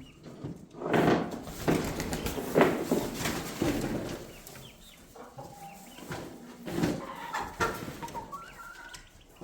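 Poultry in a coop, chickens and young guinea fowl, clucking and giving short calls at roost time. Several louder rustles and knocks come in the first few seconds, and thin, higher calls come near the end.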